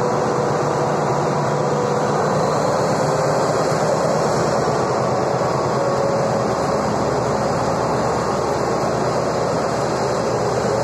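Passenger coaches of a diesel-hauled train rolling past on the rails in a steady rumble, as the Alsthom 4116 diesel-electric locomotive pulls the train away.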